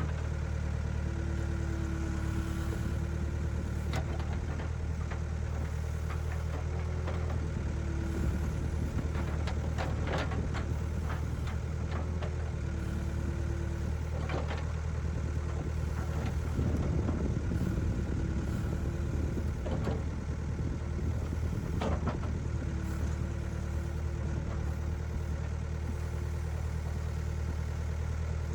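Backhoe's diesel engine running steadily, with a mid-pitched whine that comes and goes and a few scattered knocks as the ditch is dug out.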